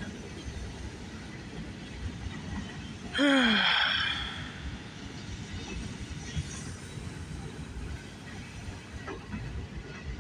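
Freight train cars rolling past on the main line, a steady rumble and clatter of wheels on rail. About three seconds in comes a brief, loud sound that falls in pitch, with a hiss.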